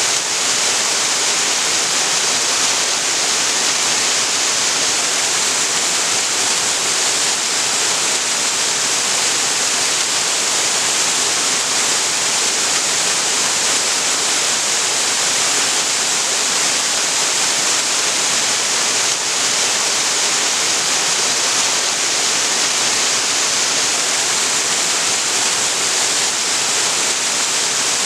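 Waterfall on a creek, water pouring and splashing into a pool in a steady, loud, unbroken rush that is strongest in the higher pitches.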